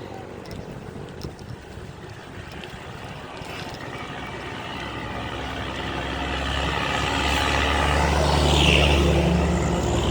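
A motor vehicle's engine running with road noise, quieter at first and getting steadily louder through the second half.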